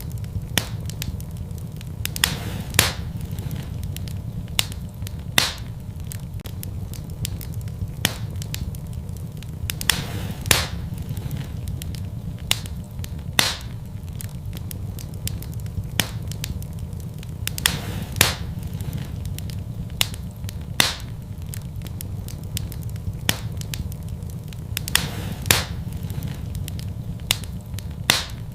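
Wood fire burning in a fireplace: a steady low rumble of the flames with sharp, irregular pops and crackles every second or two.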